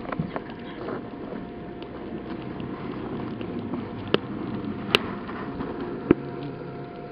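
Firewood burning in a Korean agungi firebox, crackling over a steady rush, with three sharp pops about four, five and six seconds in.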